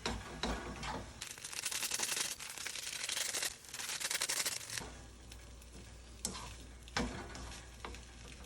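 Salt yakisoba sizzling in a frying pan as it is stirred and tossed, with the scrape and clatter of the utensil on the pan. The sizzle is loudest for the first few seconds, then eases, with a couple of sharp knocks on the pan near the end.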